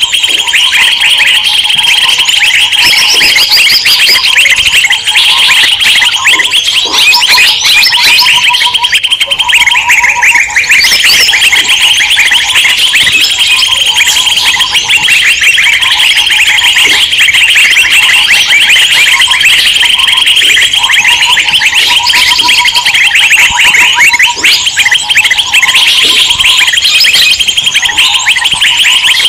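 A dense, loud chorus of many small birds chirping and twittering rapidly without pause, with a lower repeated call coming and going beneath it. It is a 'noisy birds' lure recording, played to draw wild birds in.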